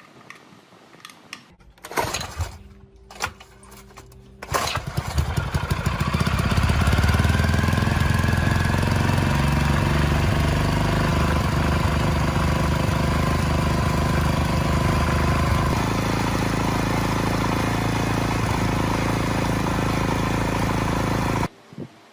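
Small four-stroke petrol engine being started: a few short attempts, then it catches about four seconds in and runs steadily. Its note settles slightly partway through, and it cuts off abruptly just before the end.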